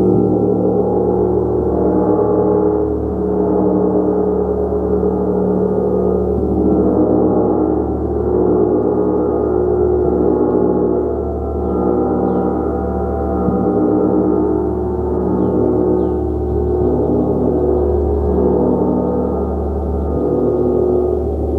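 Large gong played continuously, a sustained wash of many overlapping humming tones that swells and eases every couple of seconds.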